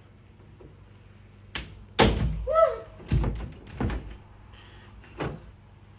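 A run of heavy thumps and knocks, roughly one a second, the loudest about two seconds in, with a short gliding squeak just after it.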